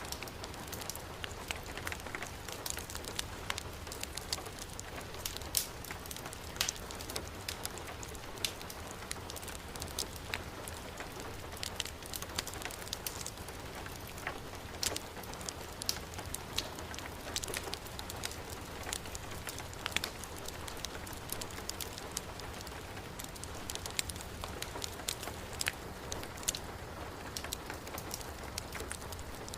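Heavy rain falling steadily, with a wood fire crackling: many short, sharp pops and ticks scattered throughout.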